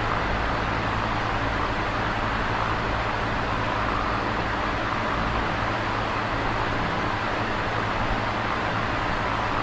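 Electric fan running steadily: an even whoosh of moving air over a constant low hum.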